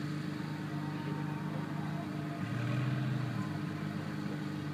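Two modified 1,000-plus-horsepower cars, a Lamborghini Gallardo Superleggera V10 and a Nissan GT-R V6, idling side by side on the start line. One engine's note swells briefly about two and a half seconds in.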